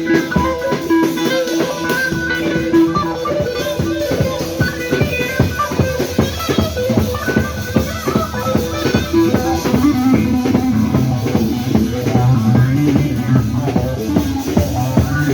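Instrumental Turkish folk music in the Yozgat ağırlama style: a plucked-string instrument plays the tune over a steady drum beat.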